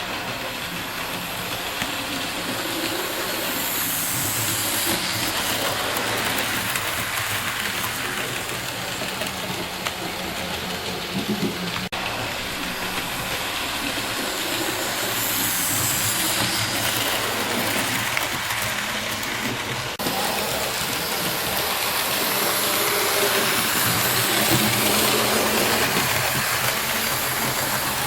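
Model steam locomotive running on a model railway layout: a steady running noise with a hiss over it, changing abruptly about twelve seconds in and again about twenty seconds in.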